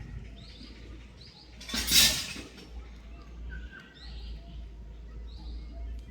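Japanese tree frogs calling in short, repeated chirps over a low steady rumble, with a brief loud rush of noise about two seconds in.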